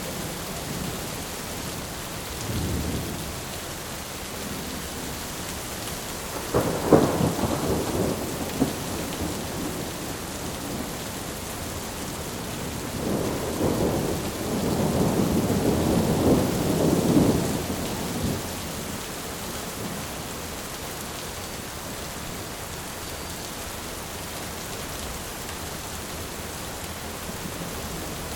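Thunderstorm: steady rain hiss with rolling thunder. A faint rumble comes a few seconds in, then a sharper clap that rumbles on for a couple of seconds, then a longer rolling rumble around the middle.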